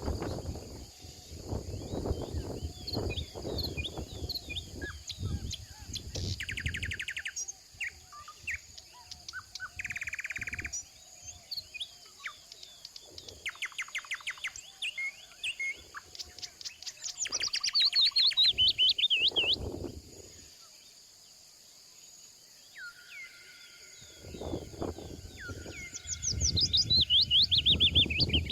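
Partridges and other wild birds calling, with rapid runs of repeated notes, trills and falling chirps. Bursts of low rumbling noise come at the start and again near the end.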